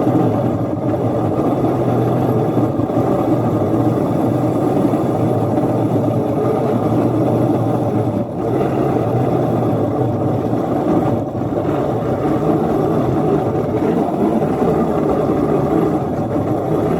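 Engine of a small ride-on locomotive running steadily under load while it plows snow up a grade with its wheels slipping, the drone dipping briefly about eight and eleven seconds in.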